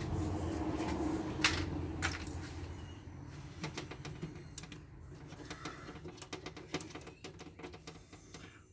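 Scattered clicks and light taps of parts being handled during a teardown of a scrap solar inverter, with a low hum in the first few seconds that fades out.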